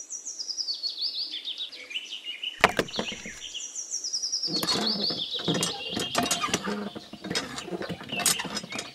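Songbird chirping in quick runs of short high notes that step down in pitch. About halfway through, many small clicks and light rattles join in.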